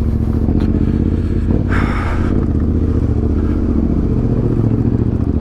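Yamaha Ténéré 700 parallel-twin engine running steadily as the motorcycle is ridden slowly along a narrow trail. A short burst of rattling noise comes about two seconds in.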